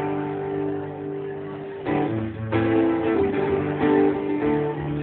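Live acoustic guitar playing strummed chords in an instrumental break between sung lines, with the chord changing about two seconds in.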